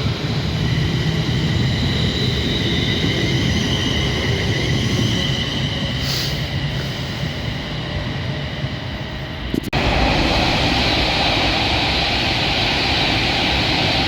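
Train noise: a steady rumble with faint whining tones, changing abruptly about ten seconds in to a louder, hissier rush.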